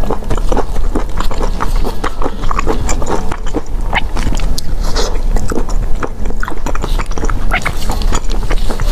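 Close-miked chewing of raw seafood in chilli oil: a dense run of wet, irregular clicks and crunches.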